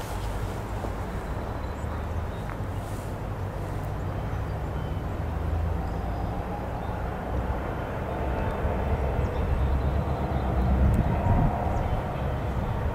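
Diesel locomotive engine of an SD70M-2 running with a deep, steady rumble, growing louder in the second half.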